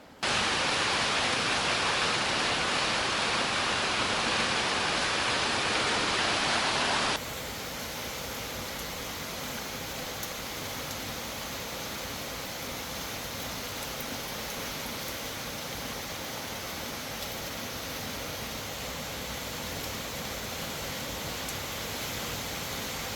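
Heavy downpour: a steady rush of rain, loud for the first seven seconds, then cutting off sharply to a quieter, steady rain hiss.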